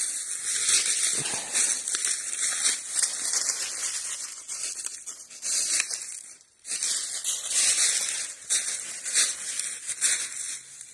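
Footsteps crunching and rustling through dry fallen leaves on a woodland floor, an irregular crackling noise with a brief pause about six and a half seconds in.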